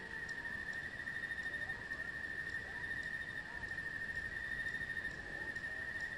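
An insect trilling steadily on one unbroken high note, with a few faint, brief gliding calls in the background.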